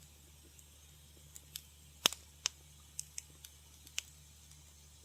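Wood fire in a fireplace crackling: scattered sharp pops and snaps at irregular moments, the loudest about two seconds in, over a faint low steady hum.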